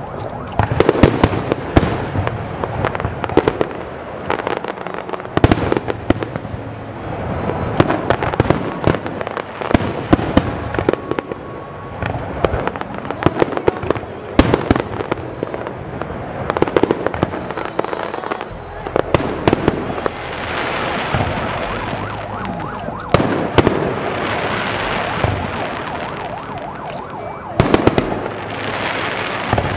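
Aerial fireworks display: shells bursting in quick, uneven volleys of sharp bangs, with crackling between them.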